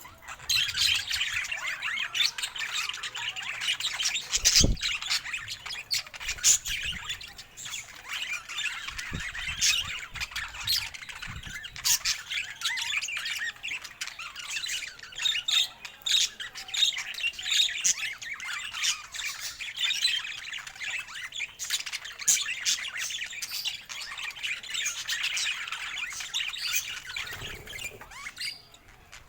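Pet parakeets chattering continuously, a dense stream of warbles, chirps, clicks and short squawks.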